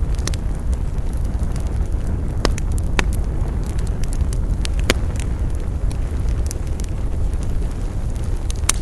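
Campfire burning: a steady low rush of flames with scattered crackles and a handful of sharper, louder pops, about two and a half, three and five seconds in and again near the end.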